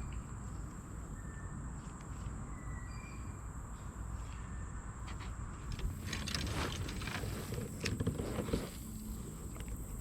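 Steady high-pitched insect drone over a low outdoor rumble, with a few short high chirps in the first couple of seconds. From about six to nine seconds in, a run of knocks and scrapes from handling in the kayak.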